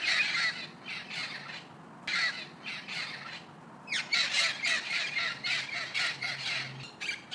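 Birds squawking: harsh, raspy calls in several bouts with short pauses between, the longest bout in the second half.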